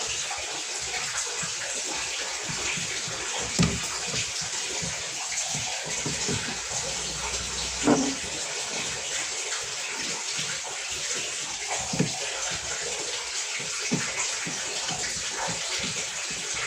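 Water running steadily, with a few short knocks about four seconds apart.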